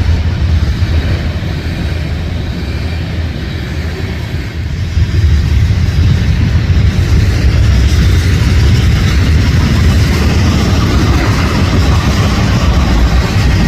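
CSX freight train passing close by: a loud, continuous rumble that swells about five seconds in and stays loud.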